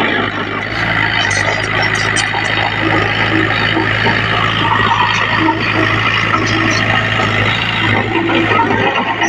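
Heavy diesel earthmoving machinery running steadily under load, a constant low engine drone with scattered metallic clatter.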